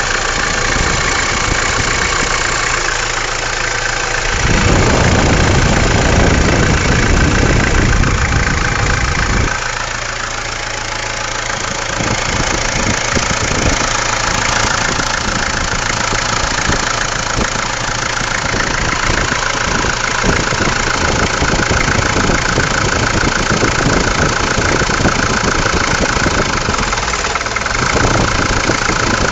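Mahindra MM 540 DP engine running at a steady idle. About four seconds in it runs louder for roughly five seconds, as if the engine speed is raised, then settles back to idle.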